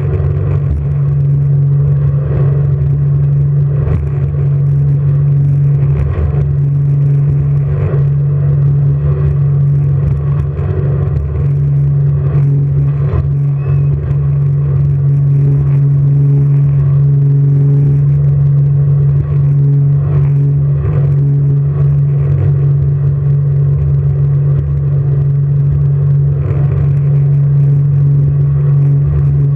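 Jet boat engine running steadily at speed, a constant low drone that holds the same pitch throughout.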